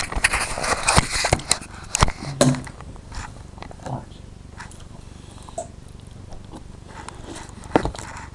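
Crunchy Reese's Puffs cereal being chewed close to the microphone, a dense crackling for the first couple of seconds mixed with knocks from the camera being handled, then quieter scattered crunches.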